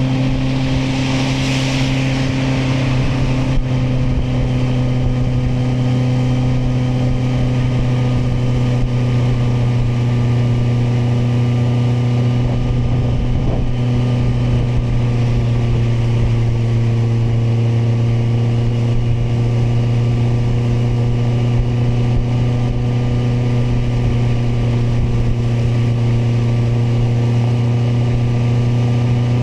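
Kawasaki motorcycle engine running at a steady cruising speed, an even hum that sags slightly in pitch about halfway through. A brief hiss rises over it about a second in.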